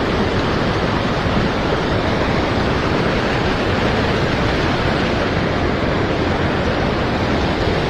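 Steady rushing of a shallow river's current, an even, unbroken noise.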